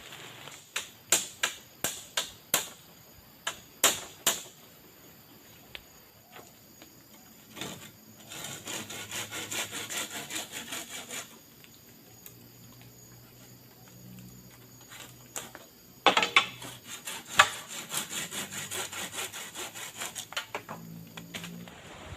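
Wood being worked by hand: a run of sharp blows about two a second, then several seconds of fast repeated strokes like sawing, then more blows and strokes near the end.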